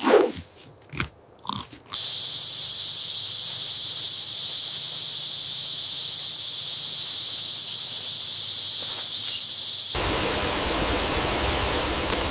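A few short animal grunts, then a steady high hiss. About ten seconds in the hiss gives way to a fuller, even rushing noise.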